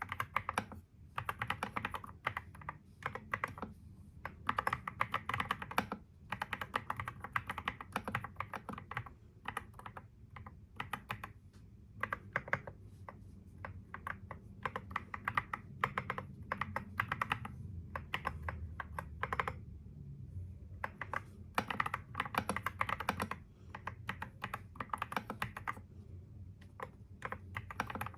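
Fast typing on a computer keyboard: quick runs of keystroke clicks broken every few seconds by brief pauses.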